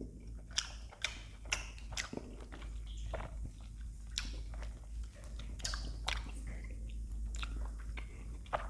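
Close-miked mouth sounds of someone chewing and biting ice cream: scattered sharp wet clicks and smacks, one or two a second.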